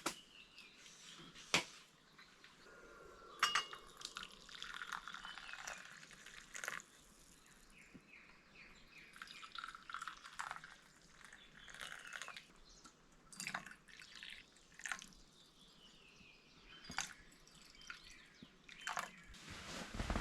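Water dripping: irregular single drops tapping, some sharper than others, over a faint background hiss.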